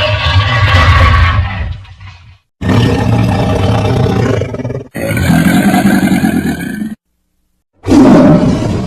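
Creature sound-effect roars made for a Megalania, a giant prehistoric monitor lizard: four long, deep, rough roars one after another with short gaps between them. The third has a high hiss laid over it.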